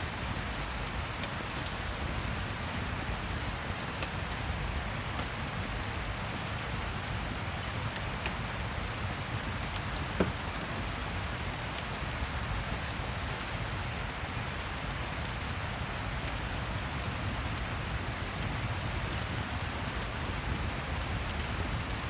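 Steady rain ambience with the occasional small crackle of a wood fire, and one sharper click about ten seconds in.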